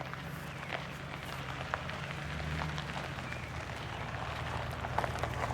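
Footsteps crunching on a gravel path, with scattered short ticks over a steady low hum.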